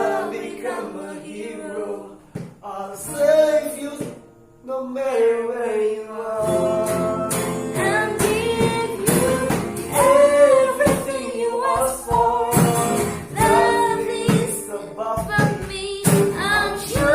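A woman singing a song with musical accompaniment; a fuller low bass comes in about six seconds in.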